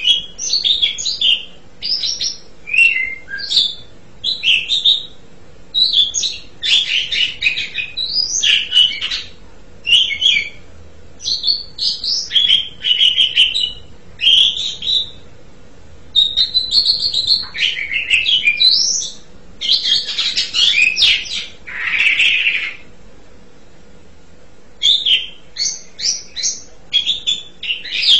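Asian pied starling (jalak suren) singing a long, varied song of quick whistles and harsh chattering phrases, broken by short pauses, with a brief lull a few seconds before the end.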